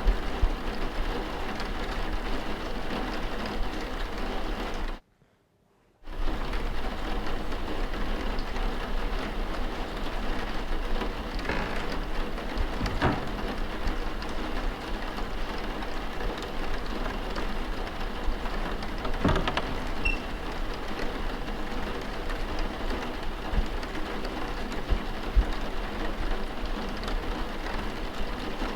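Steady rain falling, with a few faint knocks now and then. The rain cuts out for about a second about five seconds in, then resumes.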